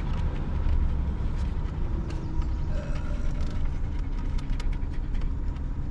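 A vehicle driving: a steady low engine and road rumble, with scattered light clicks and ticks over it.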